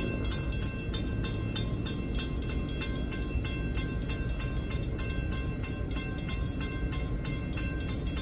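Warning bell at a railroad grade crossing ringing rapidly and evenly, about four strikes a second, over the steady low rumble of a passing freight train.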